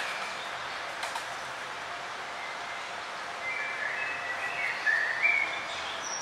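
Forest bird ambience: several small birds chirping in short phrases over a steady background hiss, the chirps gathering from about halfway in.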